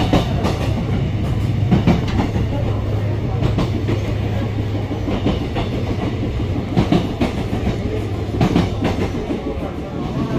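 Baekdudaegan Gorge Train (V-Train) running on the rails: a steady low rumble with irregular sharp knocks from the wheels and carriages.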